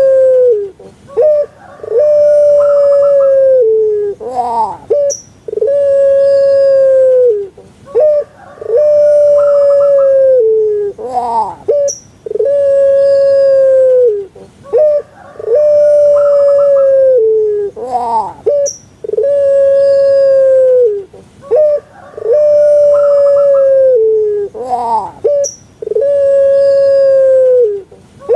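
Puter pelung dove (Streptopelia risoria) cooing its song over and over, about once every three seconds: a few short notes, a long held coo that dips in pitch at its end, then a quick rising-and-falling warble.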